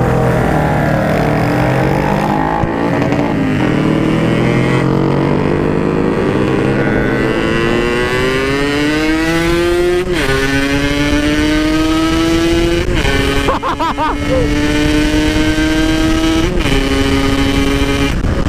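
Yamaha RX King two-stroke single-cylinder motorcycle pulling away and accelerating. Its engine pitch climbs, then drops and climbs again with upshifts about 10, 13 and 16 seconds in, over steady wind rumble on the rider's microphone.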